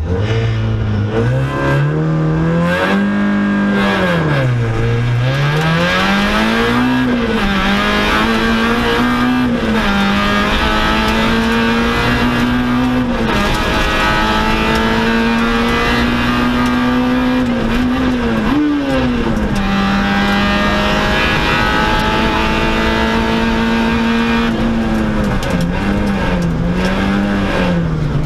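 Peugeot 106 N2 rally car's four-cylinder engine, heard from inside the cockpit. It pulls away from a standstill with the revs climbing, then runs hard along the stage. The revs dip and recover several times and are held high for long stretches.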